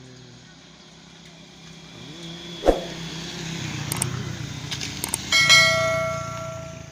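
A truck engine grows louder as it approaches, with a sharp knock and a few metallic clicks. Near the end a loud bell-like metallic ringing starts and fades away over about a second and a half.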